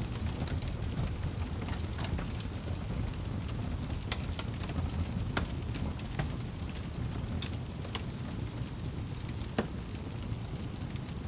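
Burning firewood crackling: a steady low rumble with irregular snaps and pops scattered through it, and one sharper pop near the end.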